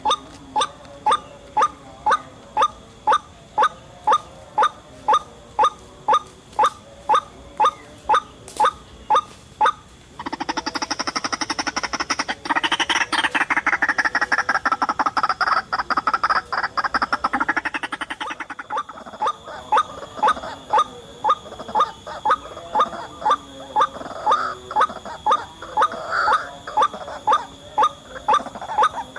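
White-breasted waterhen (ruak-ruak) calling: a sharp note repeated about twice a second. Partway through it breaks into a fast, dense chattering for several seconds, then goes back to the repeated notes.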